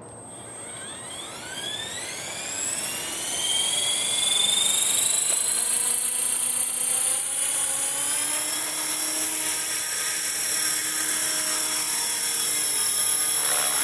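Electric 450-size RC helicopter (Hustler 450 clone) spooling up for its maiden flight: a high motor and rotor whine rises steadily in pitch and loudness over about four seconds, then settles into a steady high whine at flying speed.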